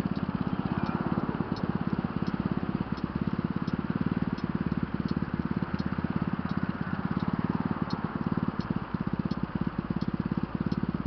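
Loud exhaust of a 125cc Vmoto motorbike running at a steady speed, a rapid, even train of exhaust pulses with no revving.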